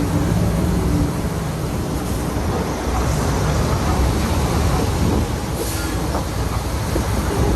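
Heavy diesel earthmoving machinery at work: an engine running under load with a steady clattering, grinding rattle of metal and stone.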